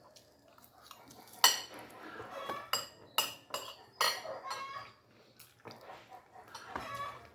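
Metal cutlery clinking and scraping against a plate while eating, in a series of sharp clinks, the loudest about a second and a half in.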